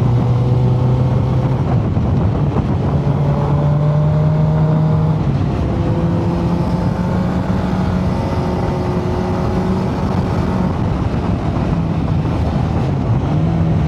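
Motorcycle engine running under way, its pitch stepping up and dropping back several times with throttle and gear changes, over a steady rush of wind noise.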